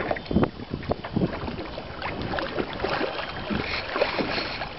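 Water lapping and knocking irregularly against a small boat's hull, with wind on the microphone.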